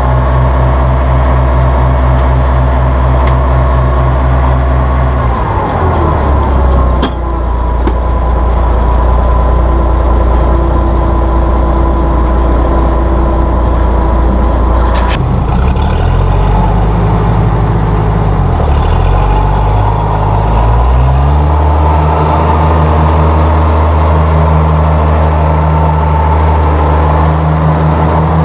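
1966 Oliver 1650 tractor's gas engine running steadily with its engine speed changing: it drops about five seconds in, wavers in the middle, and rises to a new steady speed about two-thirds of the way through.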